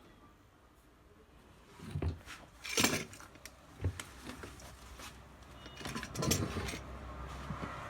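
A few knocks and scrapes of objects being handled, then a low steady hum starts about six seconds in.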